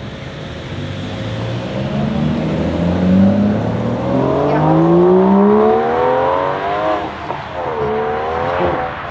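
Aston Martin DBS Superleggera's twin-turbo V12 pulling away under hard acceleration, its note rising steadily in pitch for several seconds. Near the end the pitch drops sharply at a gear change, then climbs again.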